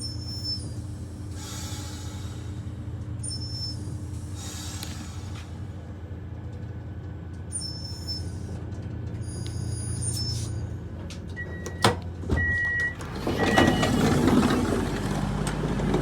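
A passenger train standing with its engines idling, a steady low hum. About twelve seconds in come two sharp clicks and short high beeps like a train's door signal, then a louder rushing noise.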